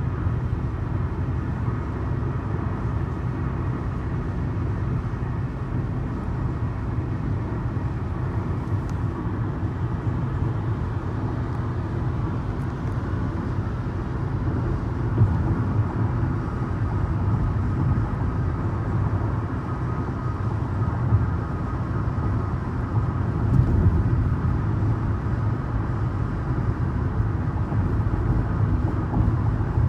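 Steady road and engine noise of a car cruising on a highway.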